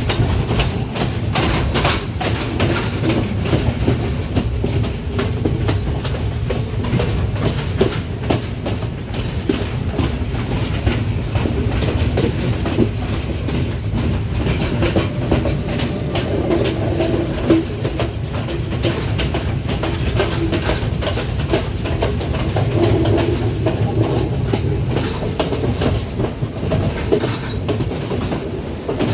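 Colombo–Badulla Night Mail passenger train running along the line, its wheels clattering steadily over the rail joints above a continuous low rumble.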